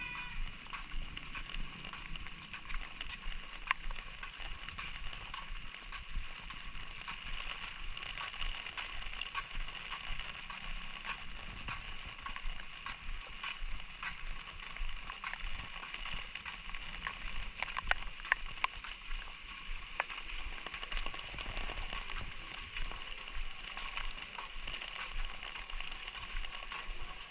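Light drizzle on a village walk: scattered sharp ticks of drops and steps over a steady high-pitched drone.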